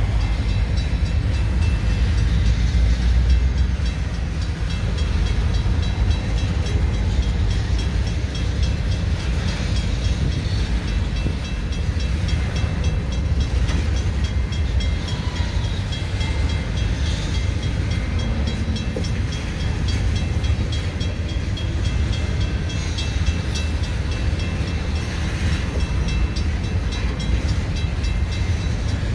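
Freight train of covered hopper cars rolling past at a road crossing: a steady low rumble of wheels on the rails.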